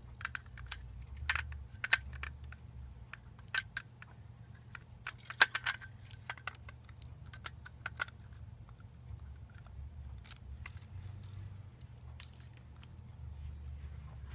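Irregular small clicks and taps of hard parts being handled during disassembly of a lightsaber replica hilt, the loudest a little past five seconds in, over a low steady hum.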